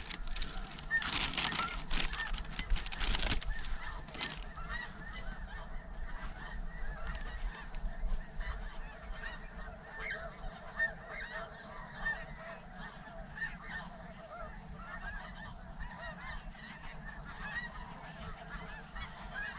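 A large flock of snow geese calling overhead: a dense, steady chorus of many overlapping honks, a little louder in the first few seconds.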